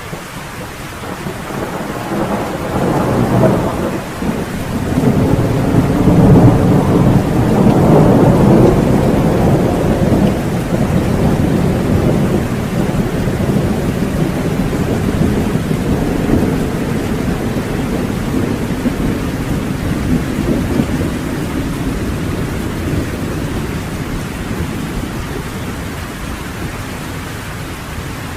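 Rolling thunder rumbling over steady heavy rain: the rumble builds a couple of seconds in, is loudest around six to nine seconds, then dies away slowly while the rain keeps falling on the porch.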